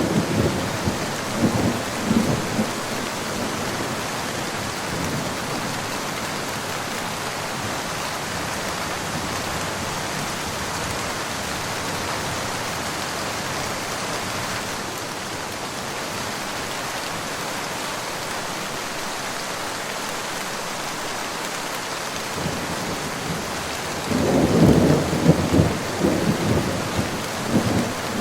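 Steady rain falling, with rolls of thunder rumbling in the first few seconds and again near the end.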